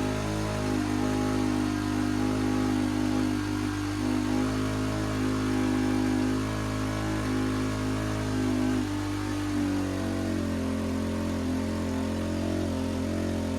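Honda XR600R's single-cylinder four-stroke engine running at steady high revs.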